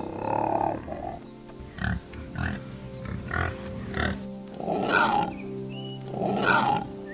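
Domestic pig grunting and squealing in a run of short calls, with two longer squeals near the end, over background music.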